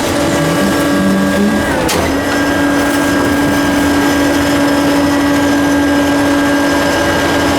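Hydraulic pump of a Ford L8000 garbage truck with a Loadmaster LM125 front-loader body, whining steadily over the running diesel engine. About two seconds in there is a sharp knock and the whine briefly drops in pitch, then it settles into a steady whine again.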